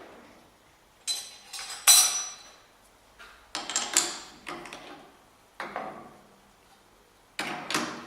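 Metal tools and lathe fittings clinking and clanking as they are handled, about seven or eight separate knocks. Some knocks ring briefly, and they come in small clusters with pauses between. A lathe's run fades out right at the start.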